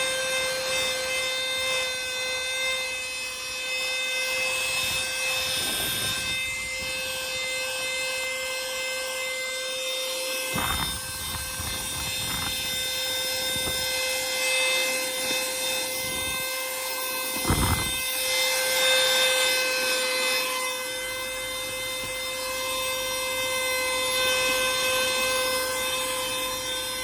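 Cordless handheld vacuum cleaner running with a steady whine, its brush nozzle rubbing over surfaces, with a couple of short knocks about ten and seventeen seconds in.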